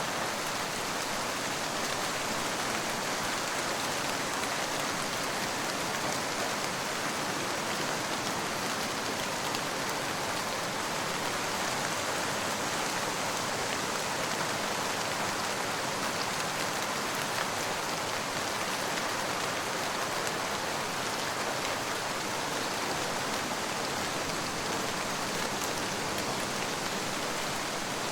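Steady rain falling on surfaces, an even hiss of fine drops with no change in strength and no thunder.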